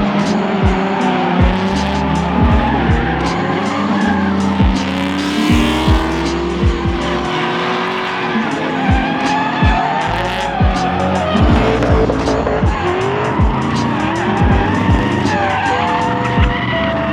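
Engines revving and tyres squealing as vehicles drift, under loud background music with a steady beat and a stepping bass line.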